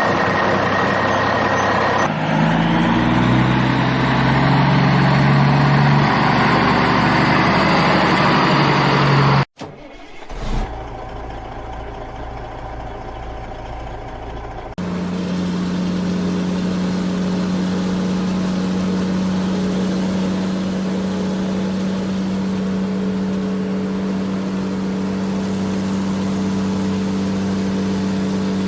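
Vehicle engine sounds in several abruptly cut segments: revving that steps up in pitch, a sudden cut about a third of the way in, a quieter stretch, then a steady engine drone for the second half.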